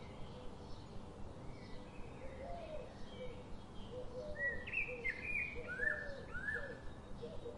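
Birds chirping: a run of short gliding chirps, loudest a little past the middle, over a faint steady background noise.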